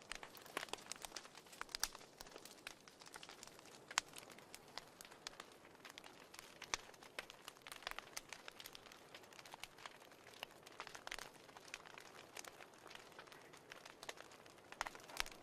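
Fireplace crackling: irregular sharp pops and snaps over a faint hiss.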